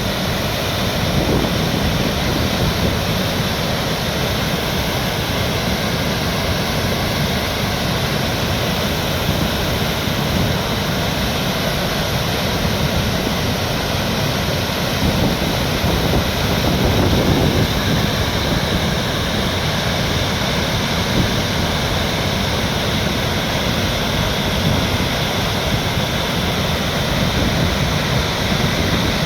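Steady rush of flowing water, a continuous dense hiss with slight swells now and then.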